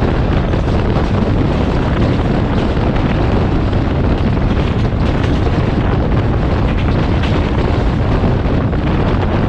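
Steady rush of wind over the microphone mixed with the wheel-on-rail rumble of a fast-moving passenger train, heard from outside the coach window.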